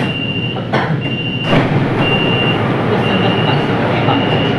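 Metro train door warning beeps: five short, high beeps at one pitch, about one a second, over the steady hum of the car, with a few clicks from the door gear, the loudest about a second and a half in.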